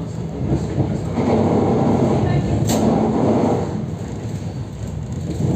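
Interior noise of an EP3D electric multiple unit under way: a steady running rumble, with one brief sharp sound a little past halfway.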